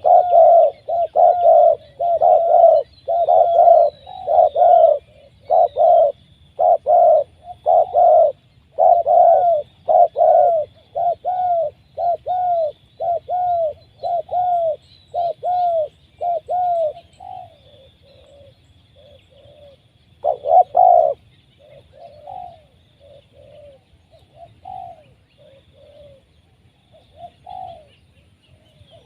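Spotted dove (tekukur) cooing in a fast run of short, repeated coo notes, about two a second and loud for the first two-thirds. After a brief loud burst around twenty seconds in, the notes turn softer and sparser. Faint high chirping of other birds runs underneath.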